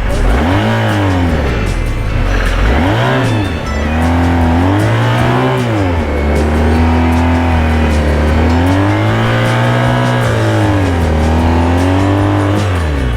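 A BMW R 1250 GS Adventure's boxer-twin engine is revved up and down several times, then held high for several seconds near the end. The clutch is slipping, and the engine revs without driving the bike.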